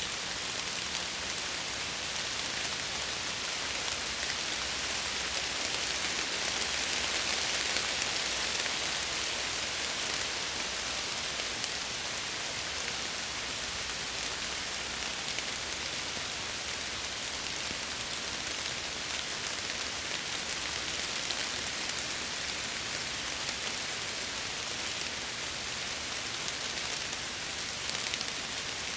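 Steady heavy rain pattering on window glass, a dense hiss with fine scattered drop ticks, swelling slightly a few seconds in.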